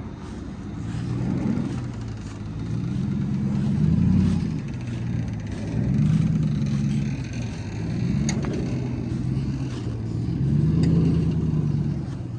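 Car engine revving in several swells, each rising in pitch and falling back toward idle, about four times.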